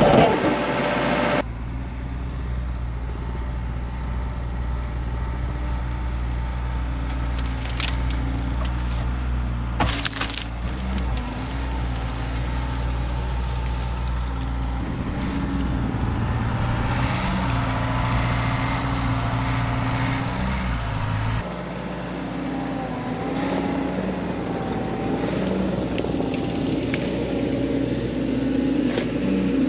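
Bobcat T66 compact track loader's diesel engine running steadily while it drags a chain harrow, its note shifting about two-thirds of the way through, with a few sharp cracks.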